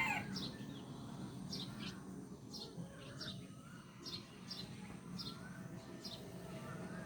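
Bird chirping: short, high, falling chirps repeated roughly every half second to second, over a faint low steady hum.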